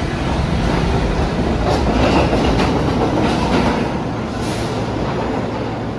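New York City subway train running through the station: a loud, steady rumble of wheels on rail with irregular clicks, loudest about two seconds in and easing off near the end.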